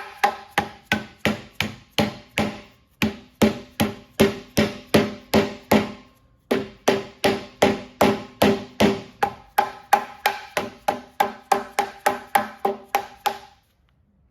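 Hammer driving nails through a thick copper flashing cap into the top of a wooden fence post: steady strikes about three a second, each with a short ring, in three runs with brief pauses about 3 and 6 seconds in.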